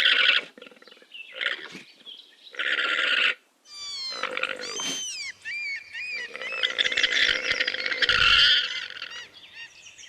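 Llama calling: a series of raspy calls, some with a pitch that wavers up and down.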